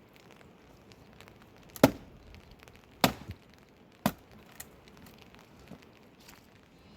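Three sharp knocks, each about a second apart, the first the loudest, followed by a couple of fainter taps.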